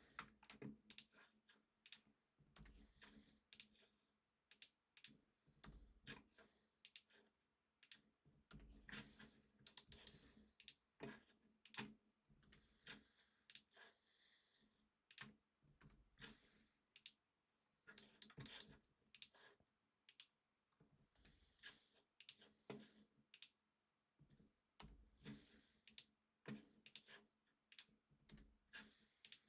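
Faint, irregular clicks of a computer mouse and keyboard as someone works at a computer.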